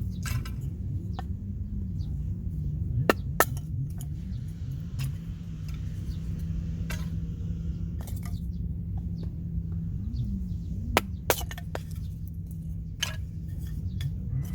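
A few sharp clicks and clinks, in pairs, over a steady low rumble.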